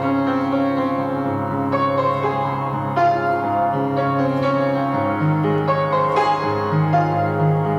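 Slow piano music: sustained notes and chords, with new notes struck every second or two.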